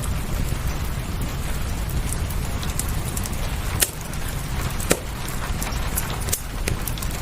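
Fireplace crackling, with a few sharp pops standing out over a steady wash of rain and low rumble.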